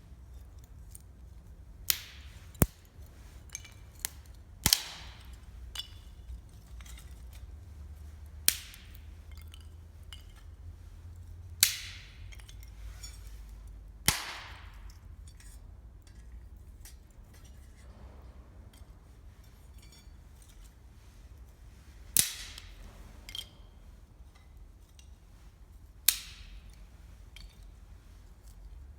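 Wood burning in a campfire, crackling with sharp pops every few seconds at irregular spacing over a low steady rumble.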